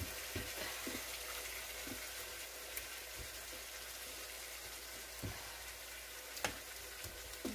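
Raw chicken pieces sizzling as they sear in a hot frying pan, with a few light clicks of tongs as more pieces are set in.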